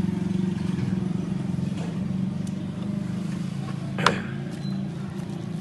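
A steady low mechanical hum, like a running motor or engine, with a single sharp click about four seconds in.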